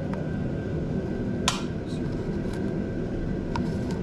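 A few light clicks of metal parts being handled while a motorcycle throttle cable is fitted, the sharpest about a second and a half in, over a steady background hum.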